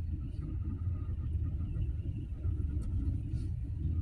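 KA Serayu passenger train running along the line: a steady low rumble of the wheels on the rails, with a faint high tone above it.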